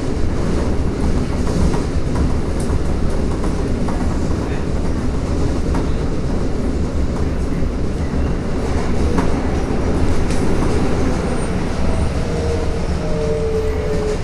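Toei Asakusa Line 5300-series subway train running: a steady loud rumble of wheels on rail with scattered clicks. Near the end a falling motor whine comes in as the train slows.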